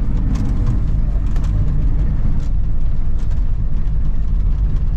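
Truck engine running steadily under load with a low rumble, while pushing a stalled diesel truck to turn its cold engine over.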